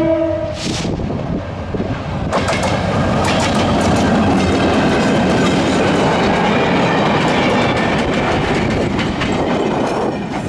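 A GT22 diesel locomotive's horn cuts off just after the start, followed by a brief hiss. From about two seconds in a train passes close, its wheels clattering over the rail joints with a steady rumble, easing off near the end.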